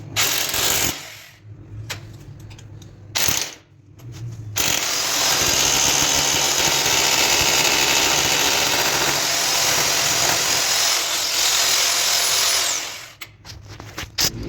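Power drill running: two short bursts, then a steady run of about eight seconds that stops near the end.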